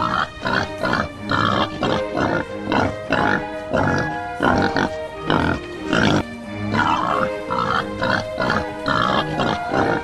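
Pigs grunting over and over, short grunts about three a second, over background music.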